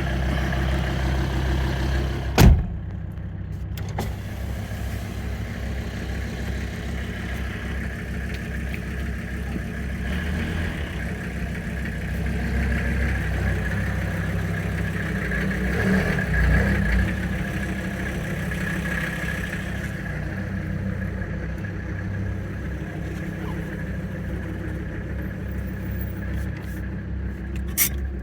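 Mercedes turbo diesel engine in a Toyota 4Runner running steadily at low speed while it warms up just after a cold start. A single sharp click sounds about two and a half seconds in.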